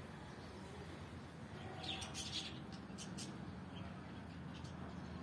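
Small birds chirping: a quick cluster of short, high chirps about two seconds in and a few more scattered later, over a steady low background hum.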